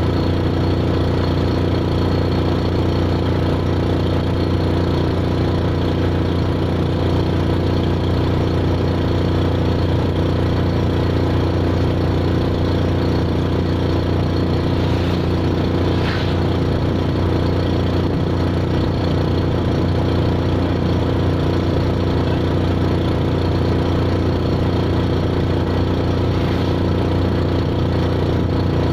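An engine running steadily at an even drone, with no change in speed.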